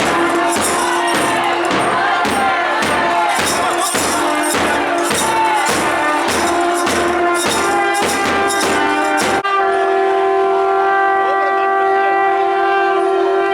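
Nadaswaram double-reed pipes playing a gliding, ornamented melody over regular thavil drum strokes. About nine seconds in the drumming stops and the pipes hold one long steady note over a drone.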